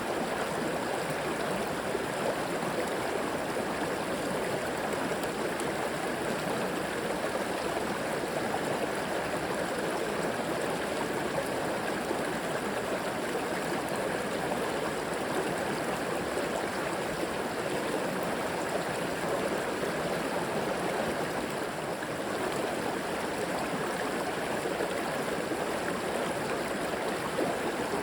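Shallow river flowing steadily, with an even rush of water over rocks.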